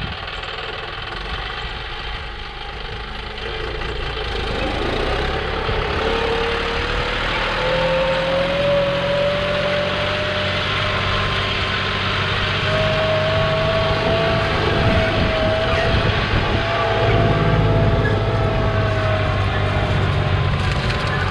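Farm tractor engine running and speeding up, getting louder from about four seconds in, with a whine that climbs steadily in pitch over the next fifteen seconds.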